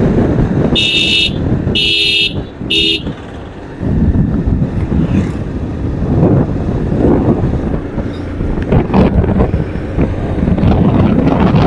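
Wind and road noise rushing over the microphone of a moving motorcycle. A vehicle horn beeps three times in the first three seconds: two half-second honks and a shorter third.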